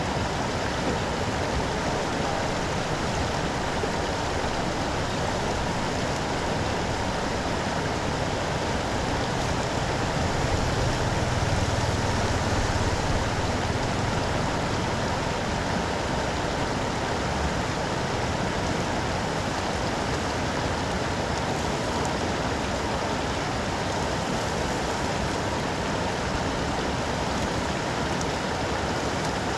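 Floodwater rushing steadily, draining off a street into a cleared storm drain, with rain falling. It swells slightly for a few seconds around the middle.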